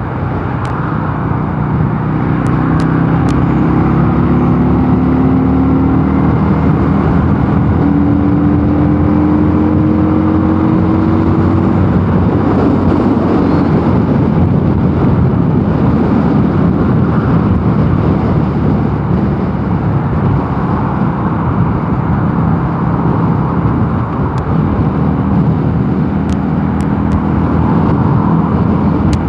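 Mondial Nevada 250 motorcycle engine running at road speed, its note rising slightly over the first dozen seconds. After that a loud rushing noise of wind and road takes over, with the engine steady underneath.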